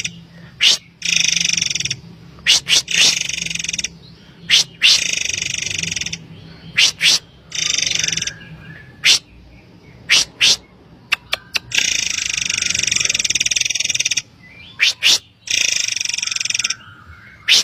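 Murai air bird song: sharp, brief high whistled notes alternating with harsh, buzzy rasping phrases of about half a second to two seconds, repeated again and again. A faint steady low hum runs underneath.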